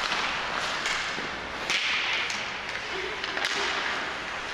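Ice hockey play in a rink: several sharp cracks of sticks striking the puck or each other, with a hissing scrape of skates on the ice about two seconds in, over the rink's steady background noise.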